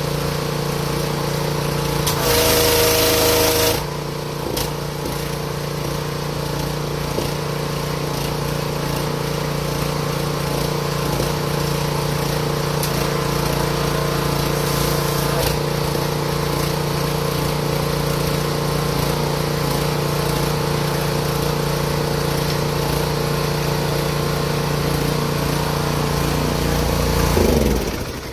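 Small gasoline engine of a 7 hp high-pressure washer running steadily, with a louder hissing rush for about a second and a half, two seconds in. Near the end the engine note swells, then winds down as it shuts off.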